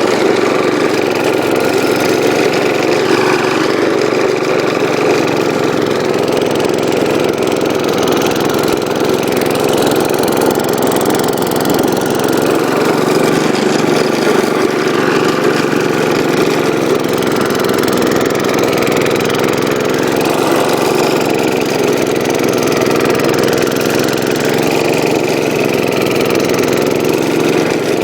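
Gravely Commercial 12 walk-behind tractor's single-cylinder Kohler engine running steadily, driving the 34-inch snowblower.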